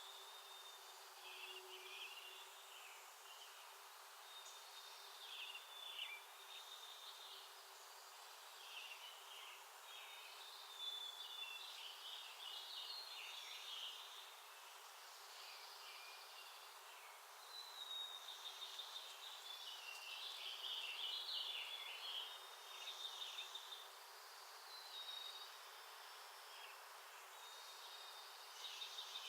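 Small songbirds giving faint, repeated chirps and short whistled call notes in bouts, busiest a little past the middle, over a steady outdoor hiss.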